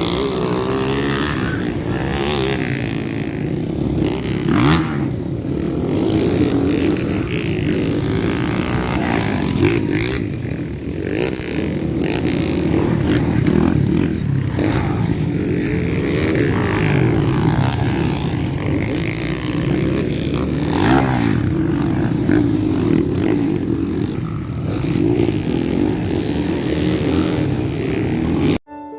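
Motocross dirt bike engines running, their pitch wavering up and down. Near the end the sound cuts off sharply and piano music begins.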